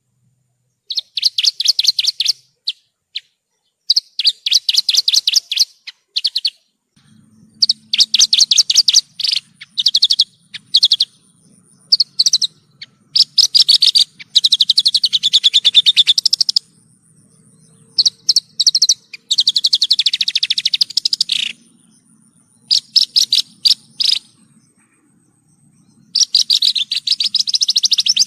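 Javan bush lark (branjangan) singing: loud phrases of rapid, trilled repeated notes, each one to three seconds long, separated by short pauses.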